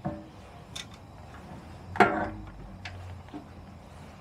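A few light clicks and knocks as a control cable is fed through the frame of a small moped, the loudest about two seconds in with a short ring after it.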